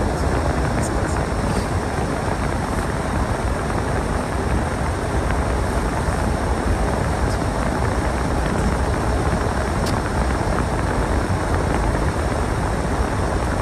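Snowstorm wind blowing steadily, with a low rumble of wind buffeting the microphone.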